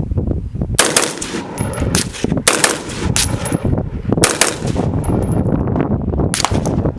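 Gunshots from an M4-style carbine, fired semi-automatic as several sharp shots, some in quick pairs and short runs, spread across several seconds.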